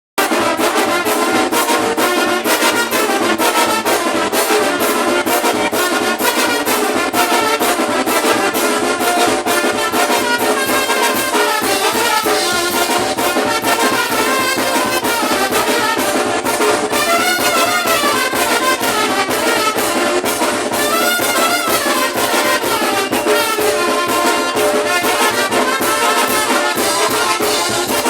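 Brass band playing continuously, with trumpets and trombones over frequent drum hits.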